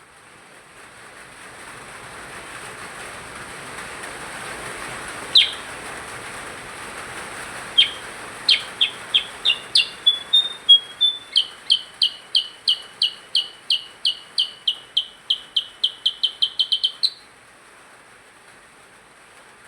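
A percang bird singing: one sharp call, then a long run of repeated chirps that quickens toward the end and stops abruptly.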